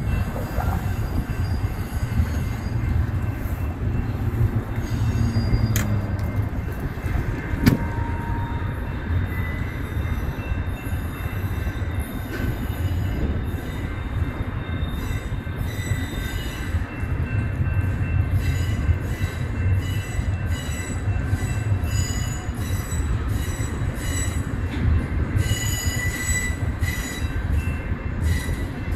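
BNSF double-stack intermodal train's well cars rolling past: a steady low rumble of wheels on rail with thin high wheel squeal over it, and a single sharp knock about eight seconds in.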